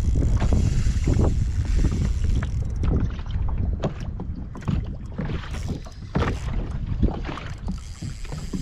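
Wind rumbling on the microphone aboard a small plastic boat, with scattered irregular knocks.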